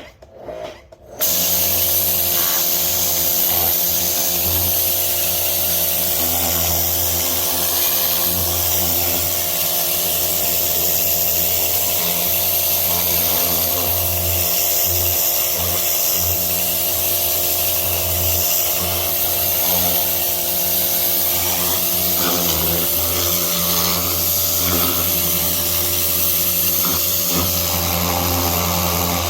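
Pressure washer running and spraying water: a steady motor-and-pump hum under a loud hiss of spray. It starts abruptly about a second in.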